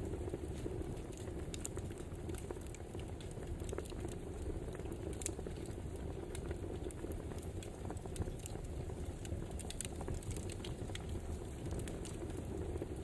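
Wood fire crackling: scattered sharp pops and snaps at irregular moments over a steady low rush of burning.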